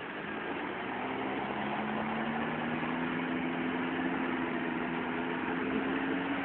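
Off-road vehicle engine running under load, its pitch and loudness slowly rising as the revs climb.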